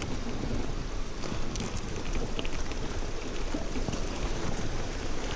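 Steady rushing of a mountain stream, an even wash of water noise with a few faint ticks.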